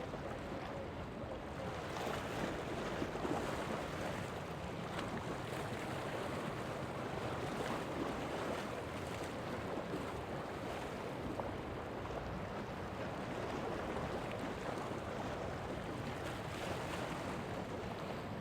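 Steady wash of wind and surf noise, even throughout with no distinct events.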